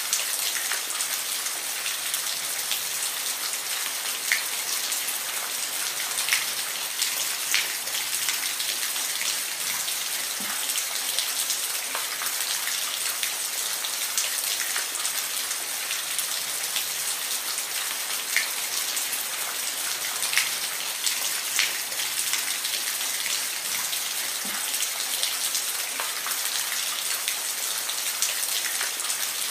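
Steady rain falling, an even hiss with scattered louder drops ticking on a hard surface now and then.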